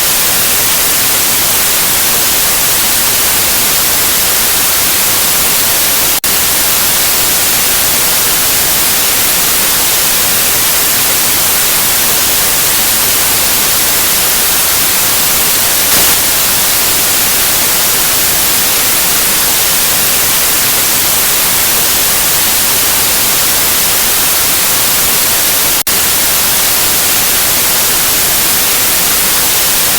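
Steady white noise: an even, loud hiss with no tones or rhythm, broken only by two split-second dips, about six seconds in and near the end.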